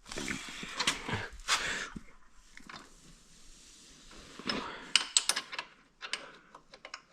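Wrench being worked on a bolt: metal scraping and rattling, then a quick run of sharp metallic clicks in the second half.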